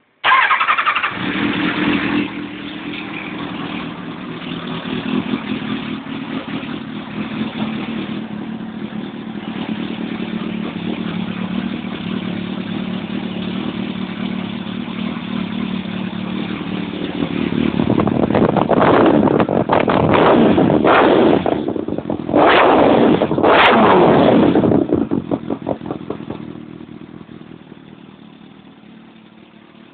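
1997 Kawasaki ZX-7R's inline-four engine through a Leo Vince aftermarket exhaust: it fires up loudly right at the start and settles into a steady idle, then is revved hard several times in quick blips about two-thirds of the way in. The sound then fades steadily near the end.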